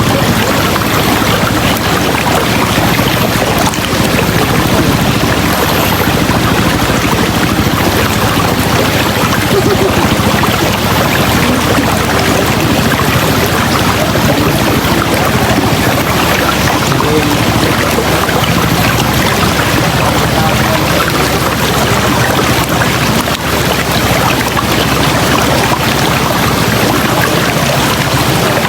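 River water rushing steadily over rocks, a loud, even rush of noise with no change.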